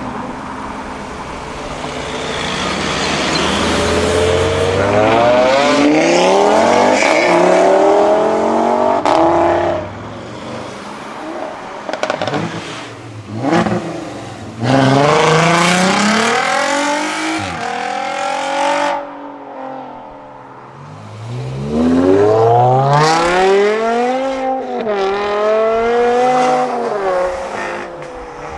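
Performance cars with modified exhausts accelerating hard away one after another, three runs in all. Each engine climbs in pitch through the gears, dropping briefly at each shift.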